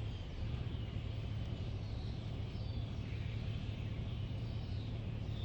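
A flock of songbirds chirping, many overlapping calls, with a steady low hum underneath.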